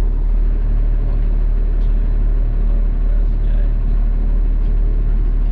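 Garbage truck engine idling steadily as a deep, even drone, heard from inside the cab.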